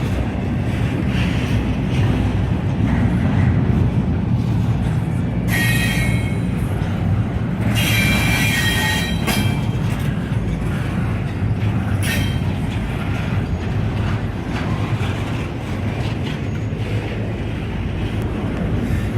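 Mixed and double-stack container freight cars rolling past with a steady rumble. Wheel flanges squeal briefly twice, about six and eight seconds in, with a shorter squeal near twelve seconds.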